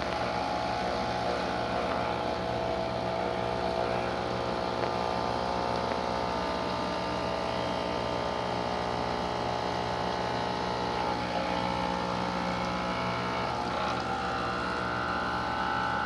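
Expobar espresso machine's pump running steadily while pulling a shot of espresso, a constant mechanical hum; the pressure is just above 9 bar.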